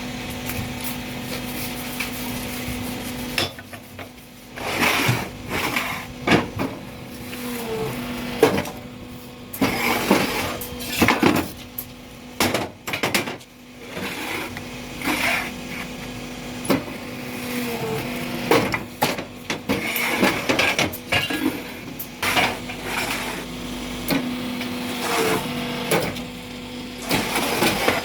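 Block-making machine running: a steady mechanical hum with repeated metal clanks and knocks over it.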